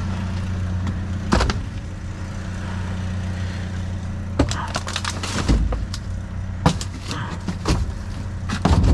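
A vehicle engine idles with a steady low hum while scrap is handled, giving scattered sharp knocks and clatter, most of it in the second half.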